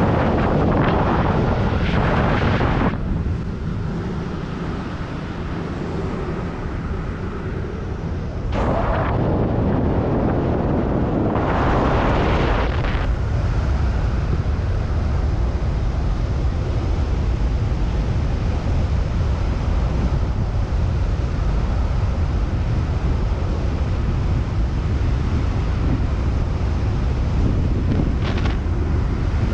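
Strong wind and airflow buffeting the microphone of a speed-wing pilot in flight: a steady low rumble with louder, hissier gusts for the first three seconds and again from about nine to thirteen seconds in.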